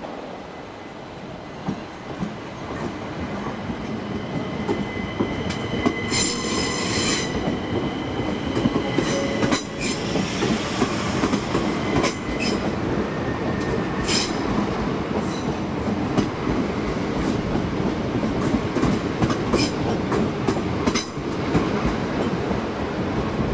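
Class 375 Electrostar electric multiple unit arriving and running along the platform, its rumble building over the first few seconds. About six seconds in there is a short high-pitched wheel squeal, followed by repeated sharp clicks of the wheels over rail joints.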